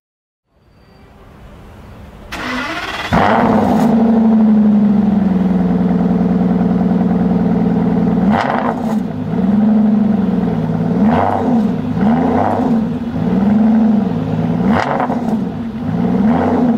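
A sports car engine is started: the starter cranks briefly about two seconds in, and the engine catches with a sudden loud flare about three seconds in. It settles into a high idle that slowly drops in pitch. From about eight seconds in it is revved repeatedly, the pitch rising and falling in blips.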